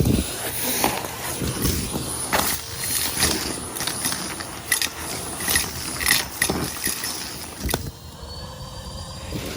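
Irregular clicks, taps and rustles, a few a second, like objects being handled, with a brief quieter stretch near the end.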